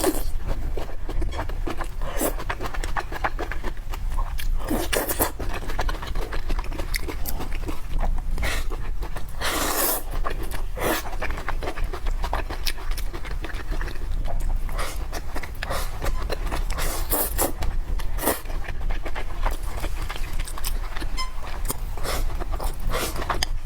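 Person eating noodles close to the microphone: a stretch of short wet clicks and smacks from chewing, a longer slurp about ten seconds in, and heavy breathing, over a steady low hum.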